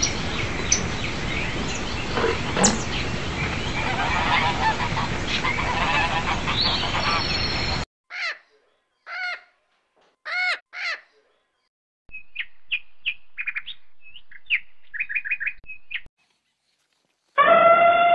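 Bird calls in several short clips cut one after another. First a noisy flock calls together for several seconds. Then come four separate honks, a run of quick high chirps, and a longer call that falls in pitch near the end.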